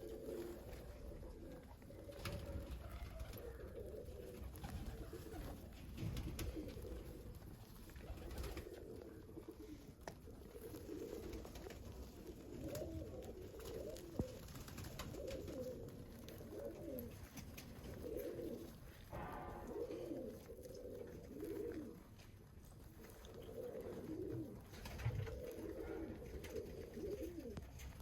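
Domestic pigeons cooing, one low wavering coo after another, with a few sharp clicks in between.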